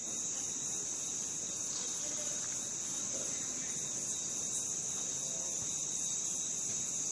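Crickets trilling in a steady, high-pitched chorus, with a fast regular pulse of about five beats a second.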